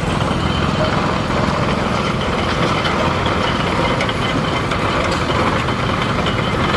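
Antique tractor engine running steadily, with a fast, even pulse low in its sound.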